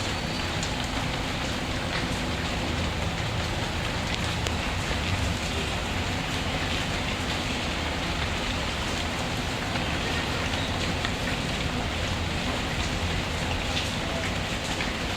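Steady rain falling without a break, with a few faint pops and crackles from a wood fire in a fireplace.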